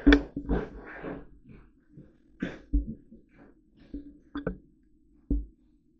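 Irregular knocks and bumps, about half a dozen, loudest in the first second and stopping a little after five seconds in.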